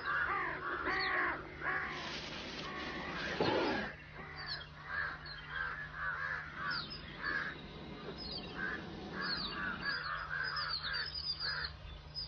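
A clamour of wild birds calling: many short, repeated harsh caws mixed with higher chirps, over a steady low hum.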